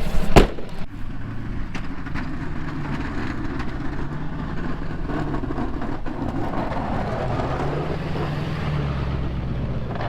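Plow truck's engine running steadily, with a sharp click about half a second in.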